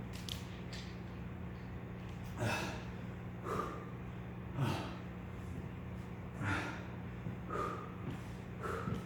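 A man breathing hard from exertion: six sharp, forceful breaths about a second apart, in two groups of three, over a steady low hum.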